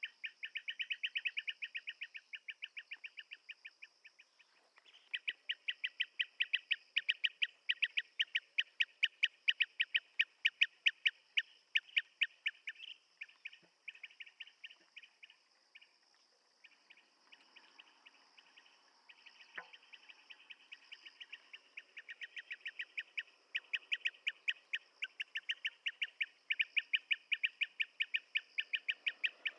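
Blue-tailed bee-eater calling: fast runs of short, clipped, repeated notes, about six a second. The runs thin out and grow faint about halfway through, then pick up strongly again.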